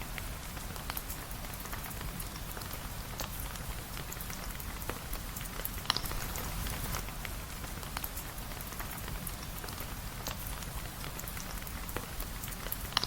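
Steady rain pattering, with scattered sharp clicks through it, the loudest about six seconds in.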